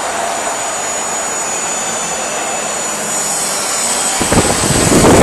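Helicopter flying with a steady rotor and engine noise, which swells into a much louder rush about four seconds in.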